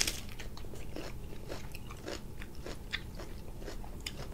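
A person bites into a piece of grilled leafy vegetable with a sharp crunch at the start, then chews it with soft, irregular crunches and small wet clicks.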